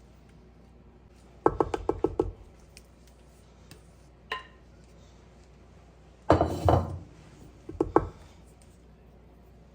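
Kitchen dishes and utensils being handled: a quick run of about six knocks, a single ringing clink, a short rattling clatter, then two more knocks.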